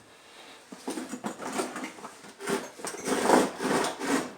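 Parts being handled and fitted back into an engine bay: irregular rattling and scraping with quick small ticks, louder in the second half.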